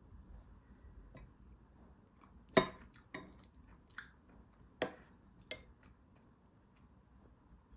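Eating utensils knocking against dishes: five sharp clinks spread over about three seconds, the first the loudest.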